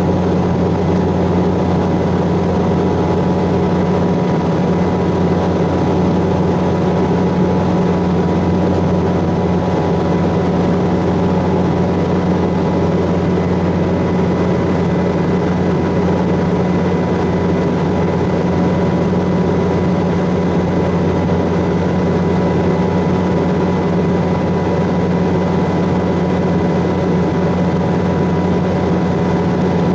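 Passenger aircraft's engines droning steadily: a constant low hum with a few faint steady tones above it.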